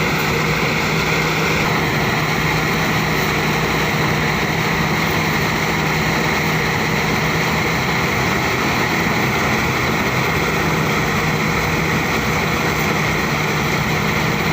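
Engine-driven rice threshing machine running steadily at a constant, unchanging pitch, with a continuous hum and threshing noise.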